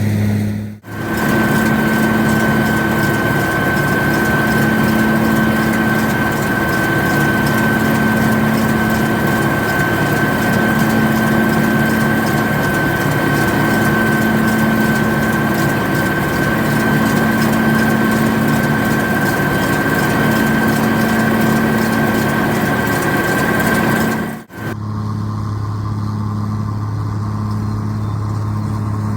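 White 2-135 farm tractor's diesel engine running steadily while it pulls a Vermeer 605N round baler in the field. The sound changes abruptly about a second in and again about five seconds before the end. In the long middle stretch a steady high whine from the machinery rides over the engine.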